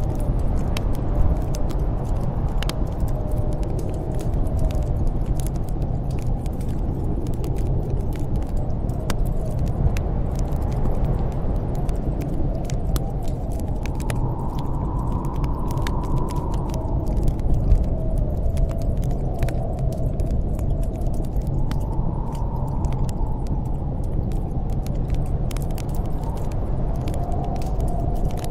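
Storm wind howling over a steady low rumble, its whistling pitch slowly rising and falling in long swells, with sparse sharp crackles and pops of a wood fire scattered throughout.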